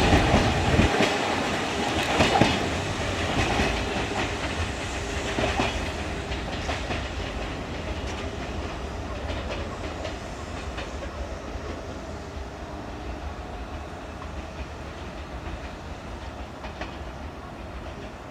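Kintetsu Minami-Osaka Line electric train moving away, its wheels clattering over the rail joints. The sound fades steadily as it recedes.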